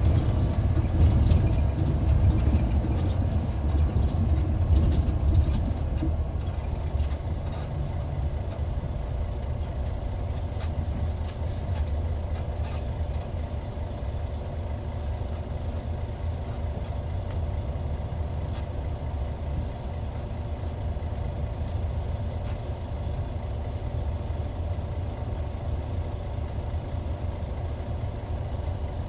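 Hyundai Universe coach's D6CC Powertec six-cylinder diesel running as a steady low rumble, louder for the first few seconds and then settling to an even, lower level.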